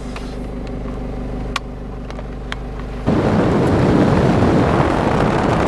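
Ute's engine running at a steady low hum with a couple of faint clicks, then about three seconds in a louder, even rushing noise suddenly takes over.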